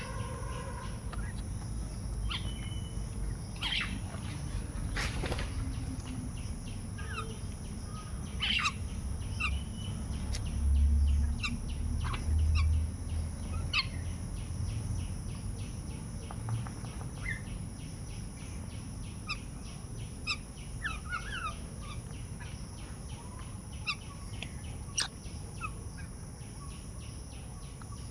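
Birds chirping in short, scattered calls, over a steady high-pitched tone. Two low rumbles, one about 11 seconds in and one about 12 seconds in, are the loudest sounds.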